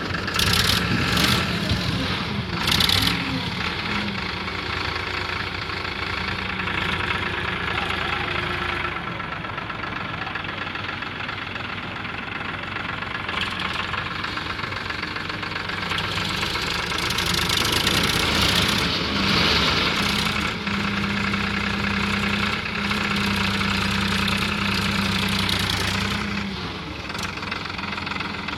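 A vehicle engine running steadily, growing louder for a few seconds at a time in the second half.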